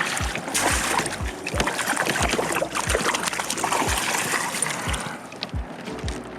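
Water splashing and sloshing around a kayak, with soft low knocks repeating about twice a second; the splashing eases off near the end.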